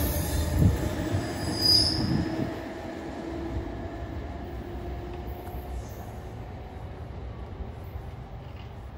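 Commuter train passing and moving away, its rumble and hum fading over the first couple of seconds, with a brief high wheel squeal about two seconds in; a low steady rumble stays after that.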